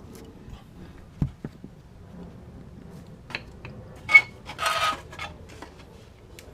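Tools and metal parts being handled: a dull thump about a second in, then a sharp metallic clink with a brief ring and a short rattling scrape near the middle, with a few small clicks.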